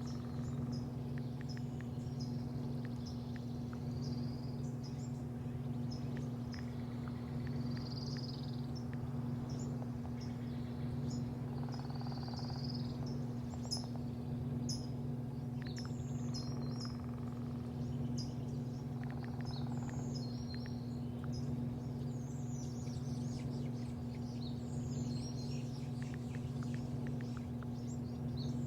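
Small birds chirping in short, frequent calls over a steady low hum.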